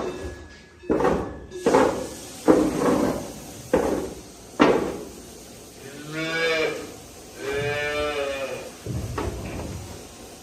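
A cow mooing twice, two long low calls in the second half. Before them come about five sharp knocks about a second apart.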